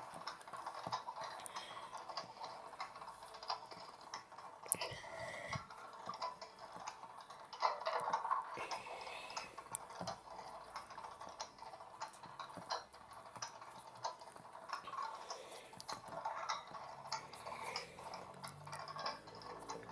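Miniature LG Mini Turbo Drum washing machine running its wash cycle: water sloshing in the drum with a steady stream of irregular light clicks and rattles.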